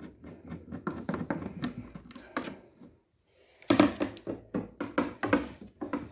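Irregular clicks and knocks of a screwdriver working self-tapping screws out of a washing machine's plastic housing, with a short break about three seconds in and louder knocks after it.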